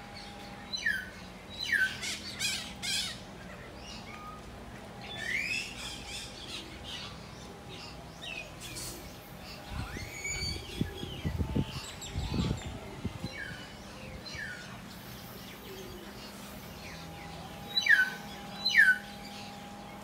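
Birds in an aviary calling: short sharp squawks and chirps that sweep quickly in pitch, scattered throughout, with the two loudest calls near the end. A faint steady hum runs underneath.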